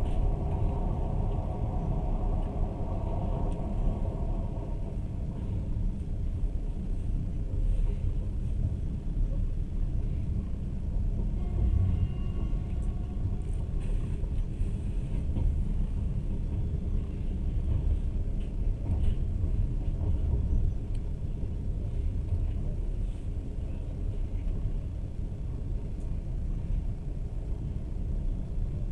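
Running noise of a moving passenger train: a steady low rumble. A fainter higher hum fades out in the first few seconds.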